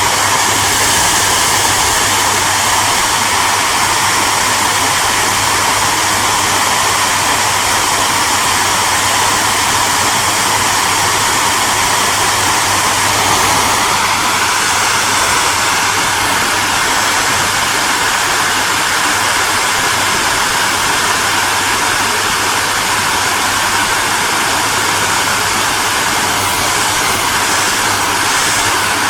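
Hair dryer running steadily: an even rush of air from its fan with a low motor hum underneath, and a faint whine that shifts up a little in pitch about halfway through.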